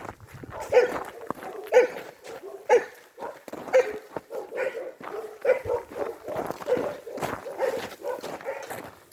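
A dog barking repeatedly, about once a second at first, then in quicker, quieter barks through the second half.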